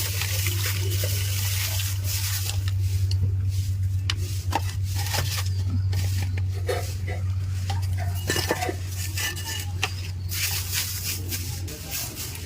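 Hard objects clinking and rattling as they are handled, over a steady low hum that stops near the end.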